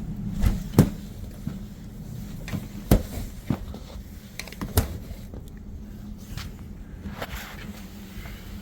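Steady low hum inside a vehicle, broken by several sharp knocks and clunks in the first five seconds.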